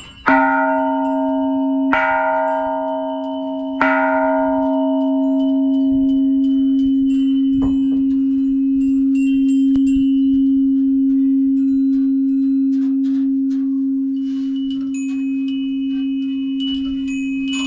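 A massive temple bell struck three times, about two seconds apart. Each strike's bright overtones fade over a few seconds while a deep hum rings on steadily. The three strikes honour the Three Jewels: the Buddha, the Dharma and the Sangha. Near the end, small chimes tinkle.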